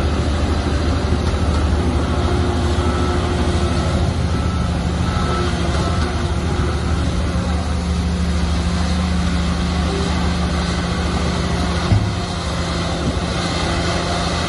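Shantui bulldozer's diesel engine running steadily under load, a deep continuous hum, with a short knock near the end.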